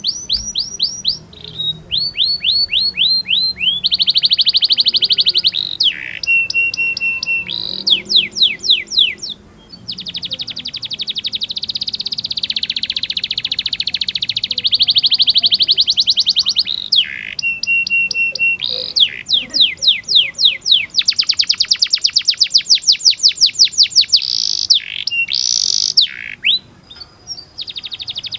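Domestic canary singing a long, varied song of fast rolls and trills, switching between different rapidly repeated notes every second or two, with a few steady whistled notes. It is the kind of canary song played as a master recording to teach young canaries.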